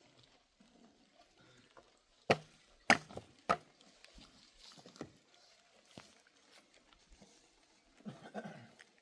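Three sharp knocks, a little over half a second apart, about two seconds in, then a fainter sound near the end.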